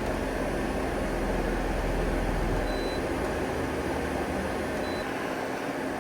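Okuma Genos L300E-MY CNC lathe running with a steady mechanical hum. A low rumble under it fades out about five seconds in, and two faint, short high beeps sound partway through.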